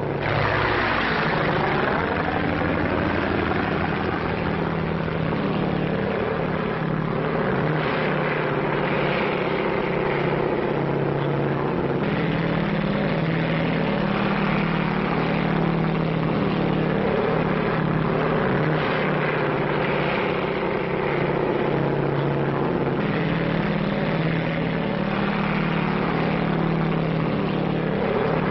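Propeller airplane's piston engine running steadily in flight, a constant drone on an old film soundtrack with its highs cut off.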